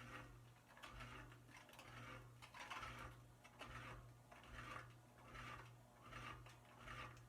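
Canarm industrial ceiling fan motor, powered but stiff from having been frozen, giving a faint steady hum while its rotor turns slowly and scrapes rhythmically, roughly once every three-quarters of a second.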